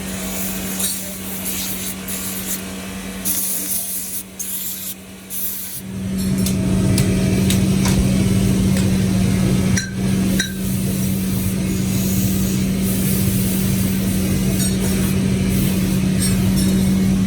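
Workshop machinery running with a steady hum, with rubbing and scraping noise over it. About six seconds in, the machine noise gets markedly louder and heavier and stays steady.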